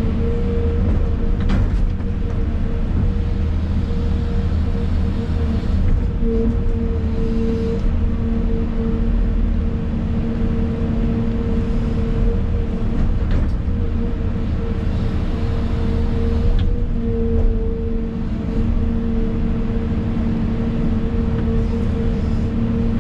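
Excavator's diesel engine running steadily with a constant hydraulic whine, heard from inside the cab. The whine grows stronger at times as the hydraulics take load, with a few light knocks from the machine working.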